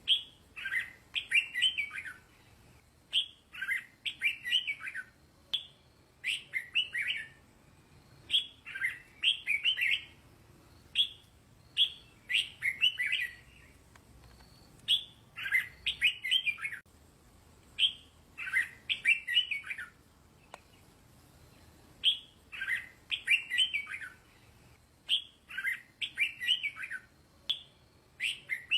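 Red-whiskered bulbul singing: short, fluty warbled phrases repeated about every two seconds, each opening with a sharp note.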